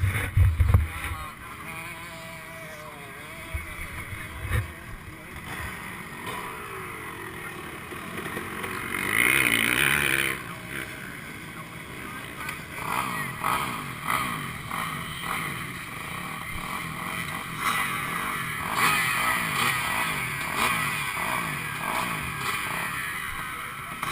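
Honda CR125 two-stroke dirt bike engine revving up and down over and over as it is ridden, its pitch rising and falling every second or so, busier in the second half. A few low thumps come in the first seconds.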